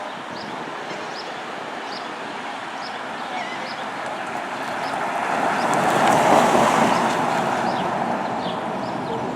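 Road traffic noise that swells as a vehicle passes, loudest about six seconds in, with faint high chirps repeating about twice a second.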